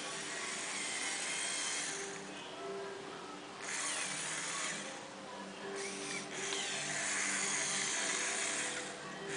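Small electric motor and plastic gearing of a LEGO Scania truck model whirring in several bursts of one to a few seconds, the whine bending in pitch as it runs, over steady background music.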